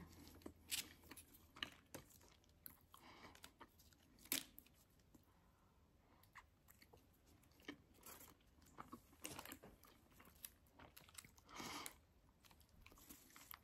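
Faint close-up mouth sounds of a person biting into and chewing a soft tortilla: small wet clicks and smacks scattered at irregular intervals, with a louder click about four seconds in and a brief louder noise near twelve seconds.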